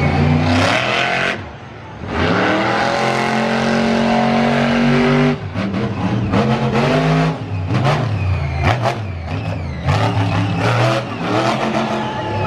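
Monster truck engine revving hard. It dips briefly, then climbs steadily in pitch for about three seconds and cuts off abruptly, followed by quick repeated blips of throttle.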